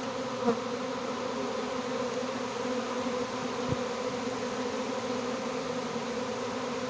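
A swarm of honey bees buzzing steadily in the air around the hive, a dense, even hum of many wings.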